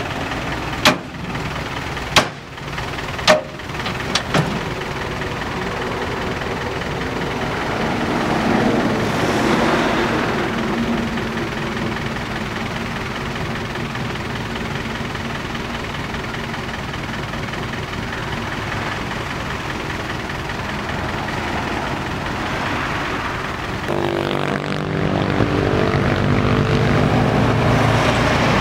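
Six-wheel dump truck's engine running under load, rising around ten seconds in, then revving harder with a deeper, steadier drone near the end as the truck tries to pull itself out of the mud. A few sharp knocks in the first few seconds.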